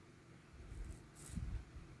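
Faint handling noise: a few soft low bumps and brief light rustling as a small container of diamond-painting drills is held up and moved.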